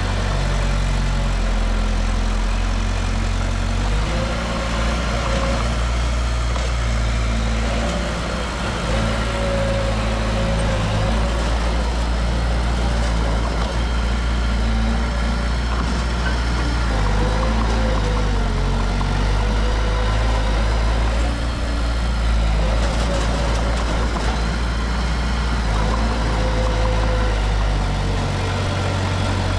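Heavy diesel engine of earthmoving machinery running steadily, its low drone stepping up and down in pitch now and then, with a faint wavering whine above it.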